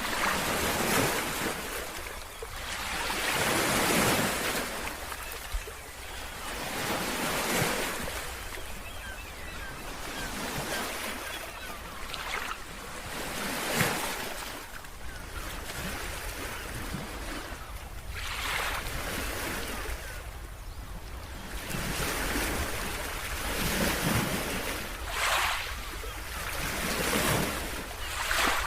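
Ocean waves breaking and washing up a beach, the surf swelling and fading every few seconds, with a low wind rumble on the microphone. A single sharp knock about halfway through.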